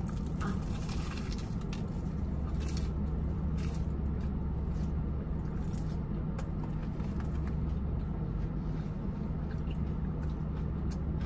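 Crunching bites and chewing of a potato-crusted mozzarella corn dog: a burst of crunch in the first second or so, then scattered crackles and squishy chewing. A steady low hum of the idling car runs underneath.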